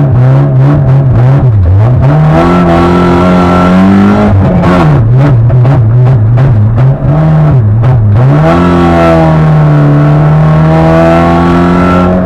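Rally car engine heard from inside the cabin, revving up and down quickly. There is a longer climb in pitch that drops off about four seconds in, and another drop about eight seconds in before a steady pull to the end.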